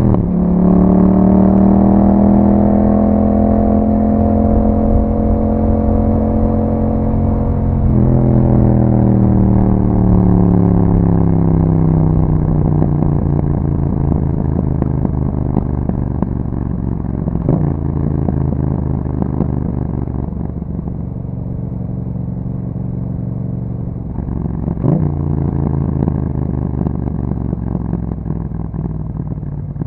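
Yamaha MT-07's 689 cc parallel-twin engine through an Akrapovic exhaust, riding under load. The engine note breaks sharply at the start and again about 8 s in, like gear changes. After the second break the note falls steadily as the bike slows, then runs lower with brief breaks near 17 and 25 seconds.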